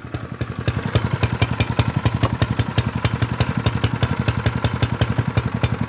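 Honda GX120 single-cylinder overhead-valve engine on a minibike, modified with its governor bypassed, running steadily at idle just after being pull-started, an even, rapid chuffing of firing pulses.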